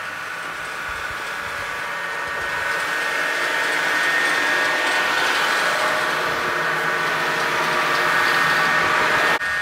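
A power saw running steadily as it cuts, growing louder over the first few seconds and stopping abruptly near the end.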